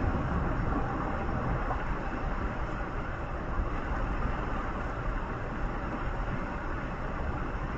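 Steady road noise of a moving vehicle travelling on a highway, a continuous rumble of engine and tyres without change.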